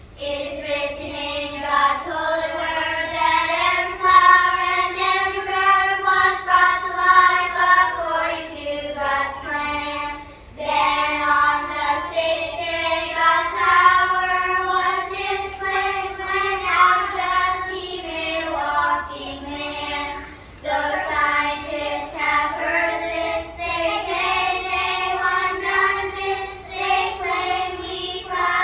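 Choir of young children, second and third graders, singing a song together, phrase after phrase, with brief breaths between lines about ten and twenty seconds in.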